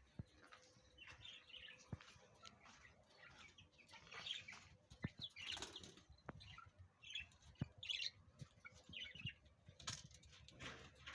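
Faint chirping from a collection of kept birds: many short, scattered calls, with occasional sharp clicks.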